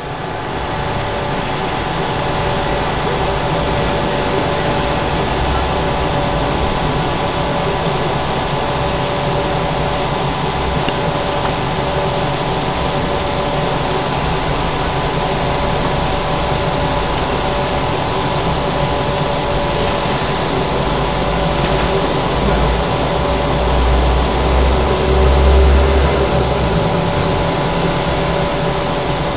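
Steady whirring hum of a BGA rework station's cooling fans, with several steady tones over a rushing noise; a low rumble swells briefly about three-quarters of the way through.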